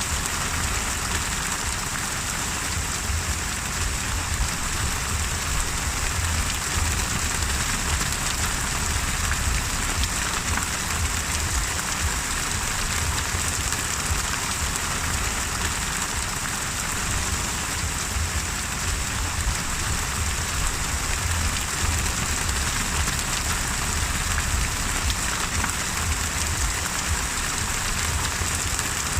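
Steady heavy rain of a rainstorm, an even hiss with a continuous low rumble underneath and no distinct thunderclap.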